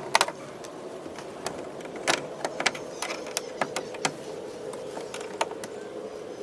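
Small electric motor whirring steadily, with many sharp clicks and knocks over it; the whir cuts off suddenly near the end.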